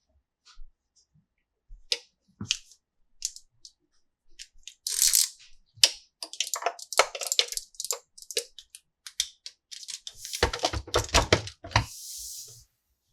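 Plastic toy pieces and packaging being handled: a run of sharp clicks and knocks, thickest about ten to twelve seconds in, with two short scratchy noises, one about five seconds in and one near the end.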